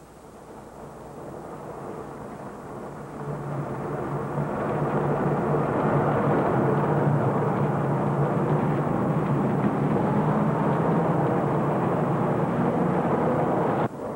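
A motor vehicle's engine running steadily, growing louder over the first few seconds as it comes close, then cut off suddenly near the end.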